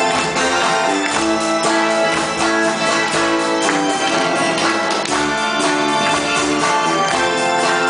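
Live amateur band playing a 7080-era Korean pop song, with guitar over a steady beat and sustained held notes.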